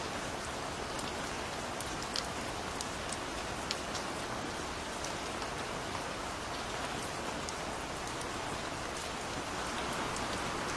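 Steady rain falling, a constant hiss with scattered sharp drips and drops striking a surface.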